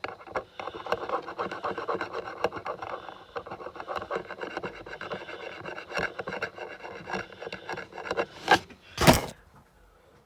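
Pen tip scratching and rubbing in quick short strokes as it colours in a logo. Near the end come two loud bumps, then the sound stops.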